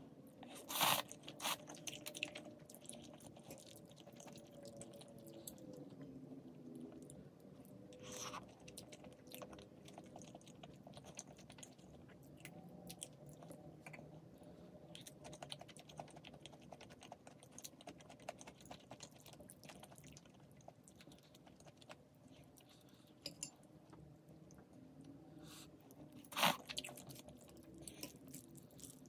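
Close-up eating sounds: a person chewing and crunching food, with many small mouth clicks throughout. A few louder sharp clicks or knocks come about a second in and again near the end.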